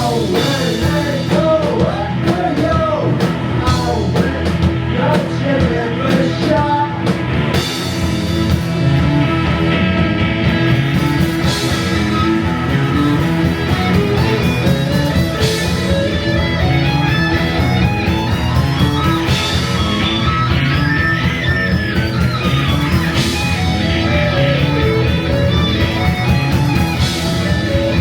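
Psychedelic rock band playing live with guitar, bass and drums. A wavering lead melody in the opening seconds gives way to a line that climbs steadily and falls back, over a steady bass-and-drum groove with cymbal crashes every few seconds.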